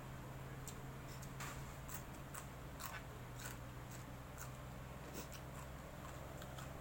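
Eating sounds: soft, irregular clicks and crunches of chewing and handling food, about a dozen spread over several seconds, over a steady low hum.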